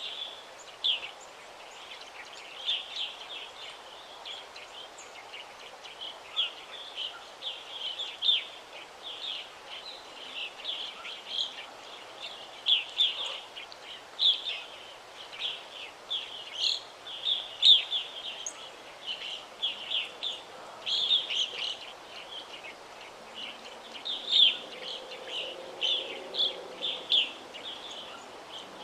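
Forest birds chirping and twittering, many short high notes following one another without pause over a faint steady hiss of background noise.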